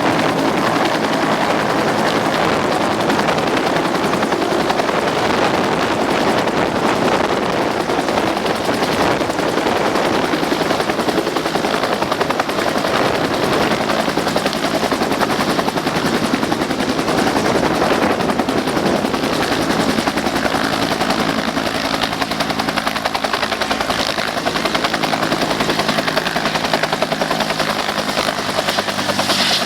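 Helicopter flying, its engine and rotor running loud and steady.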